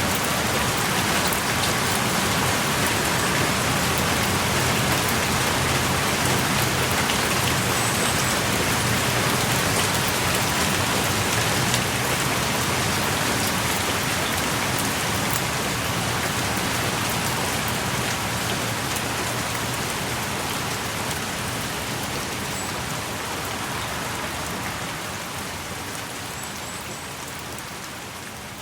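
Heavy rain pouring steadily, with a dense patter of drops, heard from inside a small rock cave. It fades out slowly over the last several seconds.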